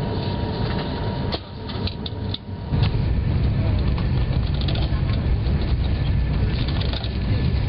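Steady low rumble of a moving passenger train heard inside the carriage, with voices mixed in. The rumble drops away briefly about a second and a half in, then comes back.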